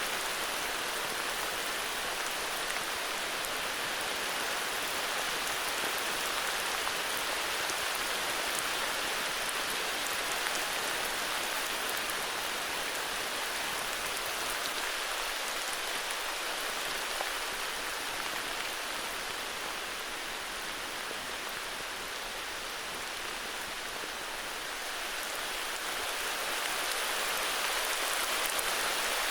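Steady heavy rain falling, a dense patter of drops on foliage and ground, easing a little midway and growing heavier again near the end.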